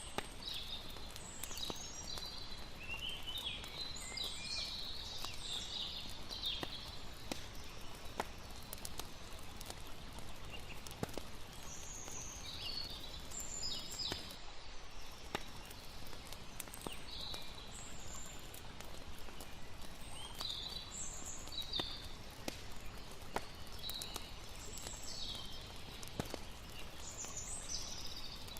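Layered night ambience: a campfire crackling with scattered sharp pops over a steady rush of water, and clusters of high chirping calls every few seconds.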